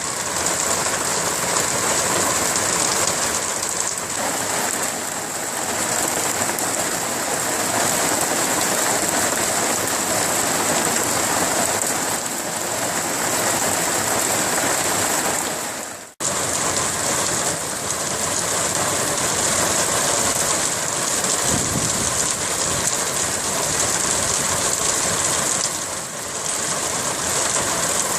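Winter rain falling steadily, with a brief cut-out about sixteen seconds in.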